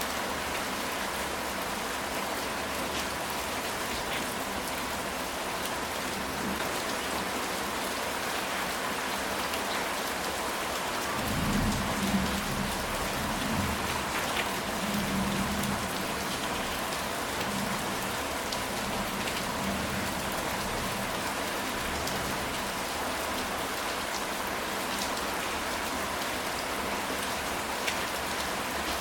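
Steady rain falling on a ceramic tile roof, with individual drops ticking through the hiss. A low rumble of thunder comes in about eleven seconds in and rolls for several seconds.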